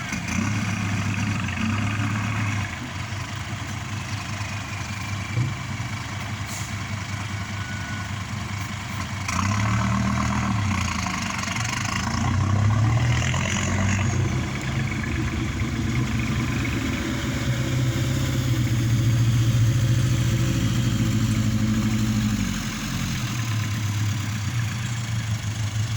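Kubota tractor's diesel engine working under load while pushing soil, its revs rising and falling several times. It is loudest about two-thirds of the way through and drops back about three-quarters through.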